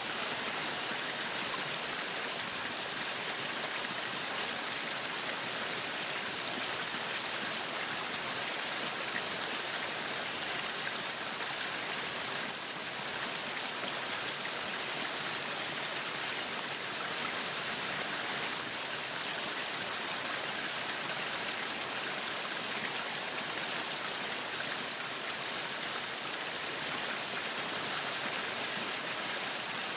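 Meat sizzling on a yakiniku grill: a steady, even hiss.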